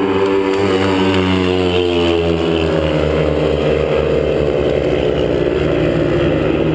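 Speedway motorcycles' 500 cc single-cylinder methanol engines running and revving, their pitch rising and falling.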